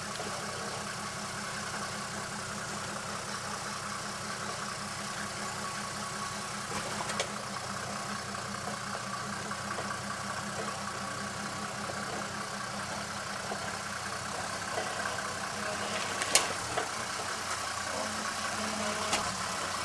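Mercedes G-Class 4x4's engine running steadily at low revs as it crawls over rocks, with a few sharp knocks, the loudest about two-thirds of the way through. The engine note shifts slightly near the end.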